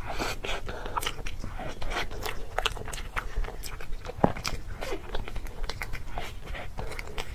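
A person chewing and biting crunchy food close to the microphone: a run of sharp, irregular crunches, several a second, with wet mouth sounds between them.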